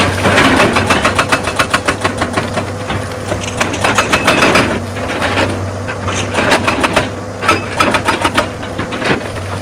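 Excavator engine running steadily under a dense, irregular clatter of knocks, rock grinding and striking against steel.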